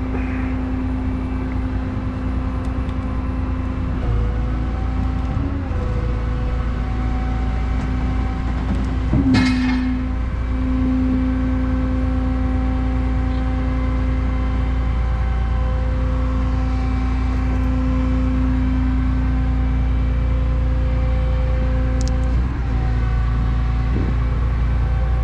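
Engine running with a steady hydraulic pump whine as a hydraulic lift is raised. A short sharp noise cuts in about nine seconds in.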